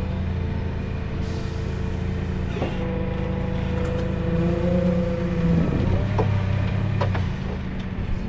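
A vehicle engine running steadily, with a wavering whine over it and a few sharp knocks in the second half.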